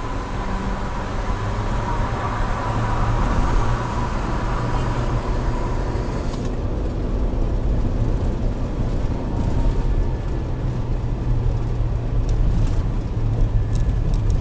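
Vehicle engine and road noise heard from inside a moving vehicle: a steady low engine hum under a hiss of tyre and wind noise that falls away sharply about six seconds in, leaving mostly the engine hum, with a few light clicks near the end.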